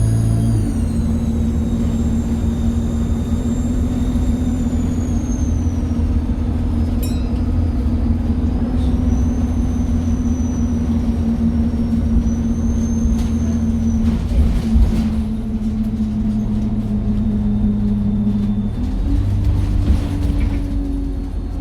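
Alexander Dennis Enviro 200 bus diesel engine running under way with a high-pitched turbocharger whistle that slowly falls in pitch over the first several seconds; a fainter whistle returns midway, and the engine note changes near the end.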